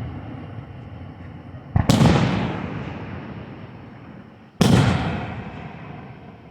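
Two fireworks shells bursting, about three seconds apart, each a sudden boom that fades into a long rumble.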